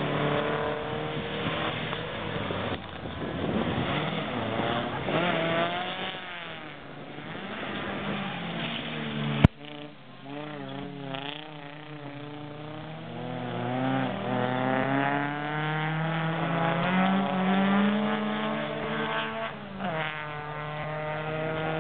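Several bilcross cars' engines revving up and down as they drive the track, with the pitch rising and falling and overlapping from more than one car. A single sharp click about nine and a half seconds in.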